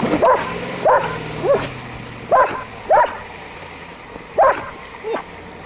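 A dog barking repeatedly, about seven short barks at uneven intervals.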